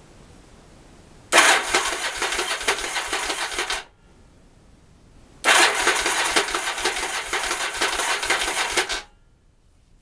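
Yamaha XV750 V-twin's electric starter cranking the engine over twice, the first time for about two and a half seconds and the second for about three and a half. Each time the cranking stops abruptly and the engine never fires, which fits the title's clogged carburettors.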